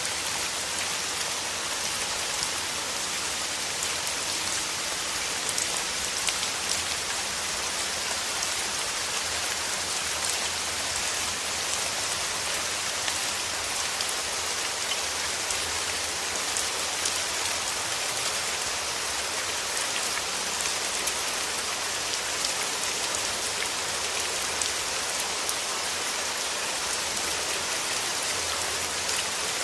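Steady rain: an even hiss of falling rain with many small ticks of individual drops landing close by.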